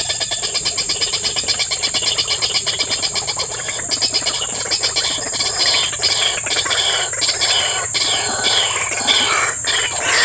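A chorus of animal calls in a swampy setting: a fast, even pulsing train of about eight to ten pulses a second, which gives way about four seconds in to irregular, sharper calls, over a steady high hiss.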